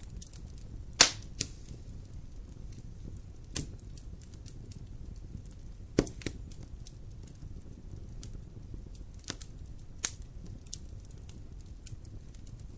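Wood fire burning in a fireplace: a steady low rumble with scattered sharp crackles and pops, the loudest about a second in and others every few seconds.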